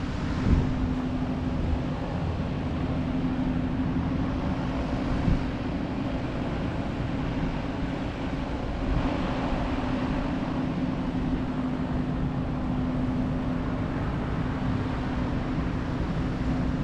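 Steady drone of an idling engine: a held low hum over a rumbling, noisy background.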